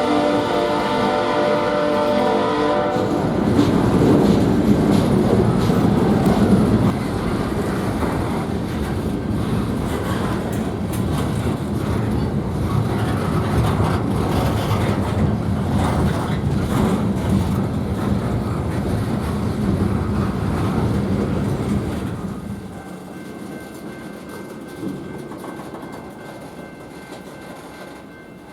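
A diesel locomotive's air horn sounds a chord for about three seconds, then a freight train passes close, its engine running and the wheels clacking over the rail joints. About 22 seconds in, the sound drops off as the train moves away.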